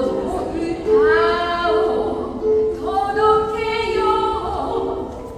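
Music: a singing voice holding two long notes, each sliding up into pitch, over a run of lower, steady notes that fits the lyre the video is devoted to.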